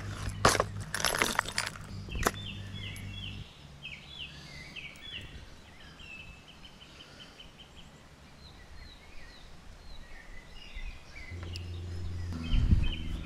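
A few sharp clicks and knocks in the first couple of seconds over a low steady hum. Then small birds sing in quick runs of short, high chirps. The hum comes back near the end.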